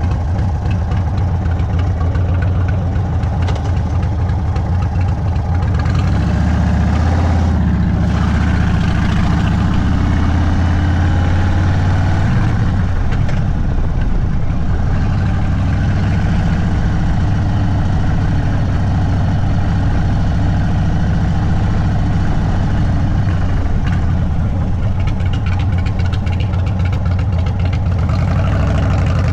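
Indian Sport Chief's air-cooled V-twin running through an aftermarket Sawicki Speed exhaust at low road speed, with small rises and falls in engine speed.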